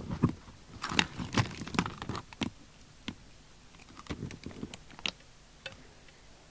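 Irregular clicks, taps and knocks of small hard objects being handled on a workbench, in two busy spells with quieter gaps between.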